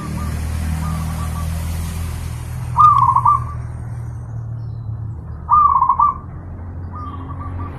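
Zebra dove (perkutut) cooing. It gives two loud, quick rolling coo phrases, one about three seconds in and one about five and a half seconds in, with fainter coo series near the start and near the end, over a steady low rumble.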